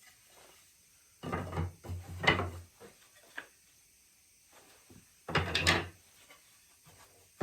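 Wooden chair slats knocking and clattering against each other as they are handled and set down, in two short bursts of knocks, one a little over a second in and one about five seconds in.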